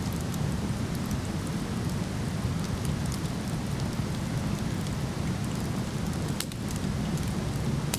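Waterfall rushing steadily with a deep, even roar, over which a wood fire crackles with scattered sharp pops, a louder one about six and a half seconds in.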